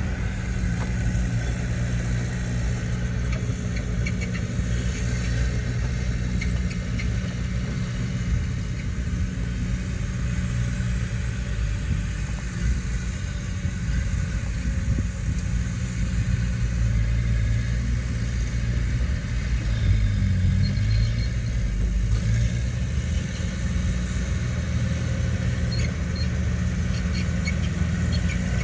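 Heavy earthmoving machine's diesel engine running steadily with a low drone, its pitch shifting a little past the middle, with a few light clinks near the end.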